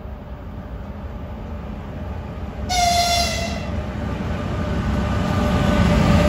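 Electric locomotive hauling a freight train approaches and passes, its rumble on the rails growing steadily louder. It sounds a brief horn blast about three seconds in.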